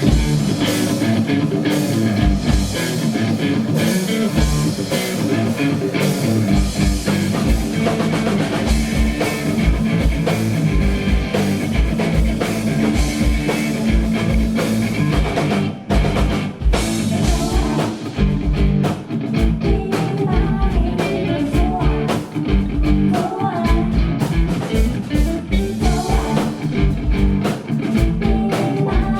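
Live heavy rock band playing: electric guitar chords over bass and a drum kit with a driving kick-drum pattern that breaks off briefly about halfway through.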